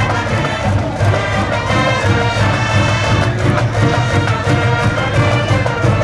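High school cheering brass band playing a baseball cheer tune, with a steady drum beat underneath.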